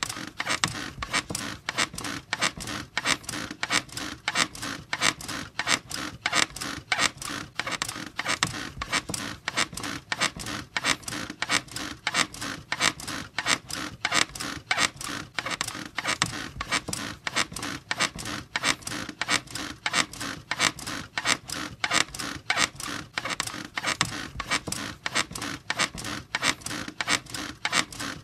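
Bed creaking in a steady, regular rhythm of squeaks: the bed frame or springs squeaking under repeated rocking.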